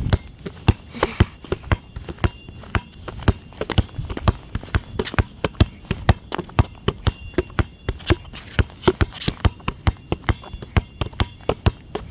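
A basketball being dribbled, bouncing about three to four times a second in a steady rhythm, with a low wind rumble on the microphone.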